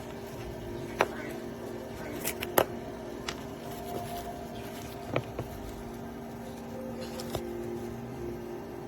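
A steady low hum with a handful of short, sharp clicks and knocks scattered through it, the loudest about a second in and about two and a half seconds in.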